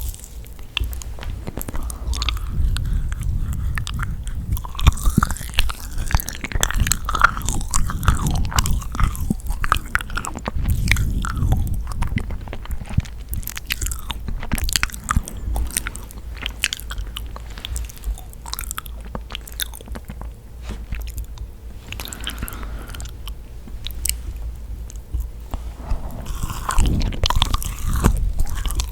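Close-up eating of yakgwa, a chewy, sticky deep-fried Korean honey cookie: repeated bites and steady chewing with many small sticky clicks and crackles.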